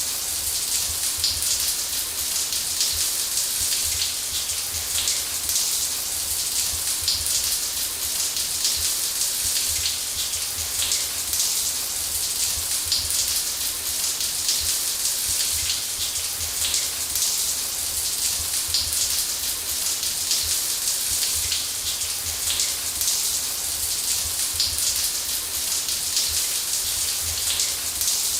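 Shower spray running steadily: a constant hiss of falling water with a dense patter of drops and a low drumming underneath.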